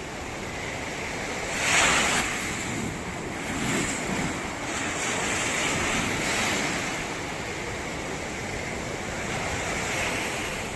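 Ocean surf washing onto a beach, with one louder wave breaking about two seconds in and smaller swells after it. Wind rumbles on the microphone throughout.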